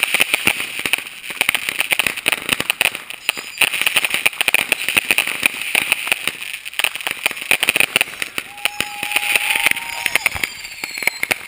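Aerial fireworks display: a dense, continuous run of crackling bursts and bangs. About three-quarters of the way through, a long held tone sounds and rises slightly before stopping.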